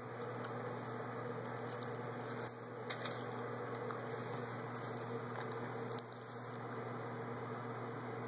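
Faint chewing on seaweed, a few soft clicks and squishes over a steady electrical hum.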